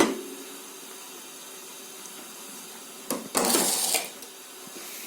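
Dishes and a pot being handled in a dishwasher rack: a knock at the start, then a click and a short rattle about three seconds in.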